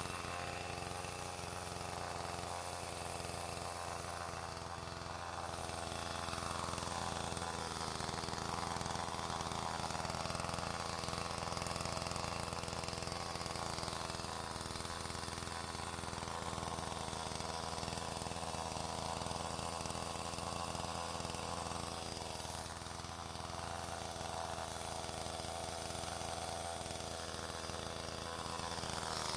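A small engine running steadily at an even speed, with a constant low hum and only slow swells in loudness.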